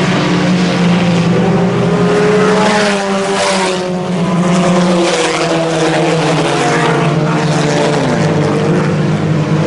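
Several IMCA Sport Compact race cars' four-cylinder engines running together at racing speed, their pitches rising and falling as the cars go around the track.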